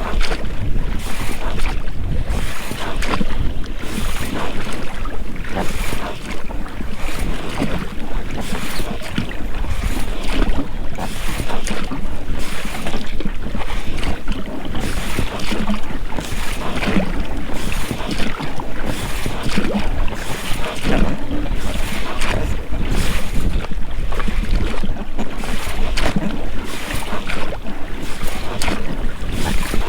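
Oars dipping and splashing in the water as an inflatable boat is rowed, with the rubber rowlocks working at each stroke. Wind rumbles on the microphone underneath.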